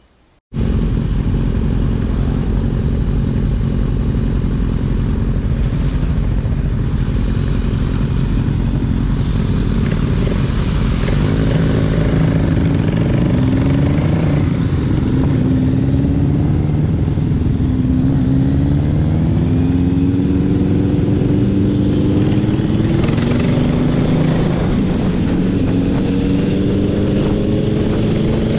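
Suzuki Grasstracker 250 cc single-cylinder motorcycle engine running on the move. Its note climbs and drops several times in the second half as the bike accelerates and shifts through the gears.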